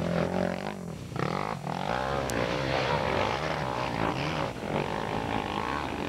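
Off-road motorcycle engines revving up and down, several engine notes overlapping, easing off briefly about a second in before picking up again.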